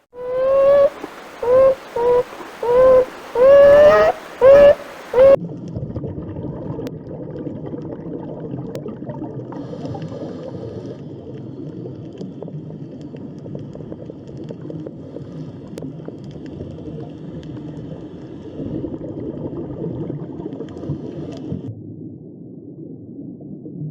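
An animal giving about seven short, arching pitched calls in quick succession. Then an abrupt change, about five seconds in, to a steady low rumbling noise.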